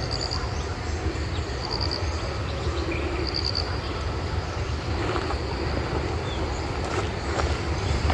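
Outdoor forest ambience: a steady low rumble under a short, high-pitched call of four quick pulses that repeats about every one and a half seconds through the first half. A few faint clicks come near the end.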